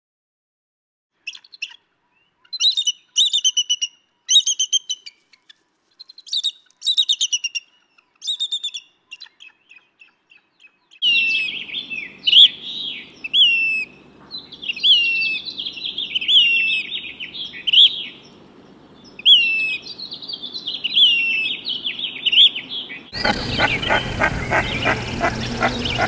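Bird calls in sequence. First a small bird gives short runs of rapid high notes. Then a Say's Phoebe gives downslurred whistles about once a second over a faint background hiss. Near the end come the rapid repeated calls of a common merganser.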